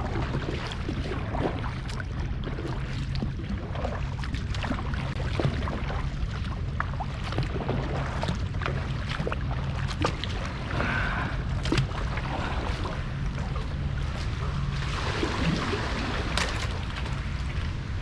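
Water splashing and lapping around a kayak, with short irregular splashes from the paddling, over a steady low rumble of wind on the microphone.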